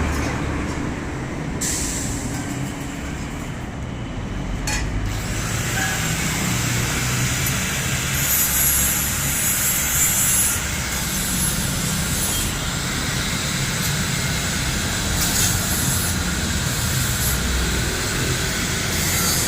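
Benelli Motobi 200 Evo's single-cylinder engine running under way, its low exhaust note shifting in pitch, with steady wind rush over it that grows stronger about a third of the way through.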